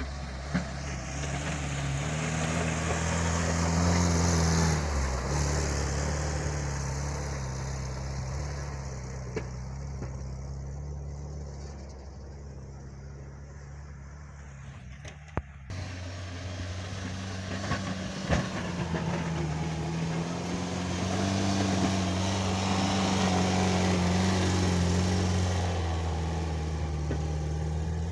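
Homemade mini tractor's engine running under load while pushing snow with an angled blade, its pitch rising and falling with the work, with a few sharp knocks. The sound changes abruptly about halfway through.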